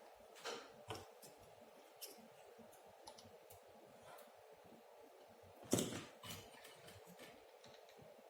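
Faint, scattered clicks and taps of small tools and parts being handled at a workbench, with one louder knock about six seconds in.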